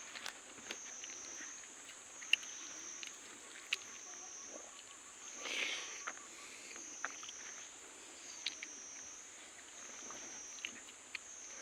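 A constant high insect drone that wavers slowly up and down in a regular pulse, with scattered sharp clicks and small smacks of someone eating by hand. There is one short rustling burst about halfway through.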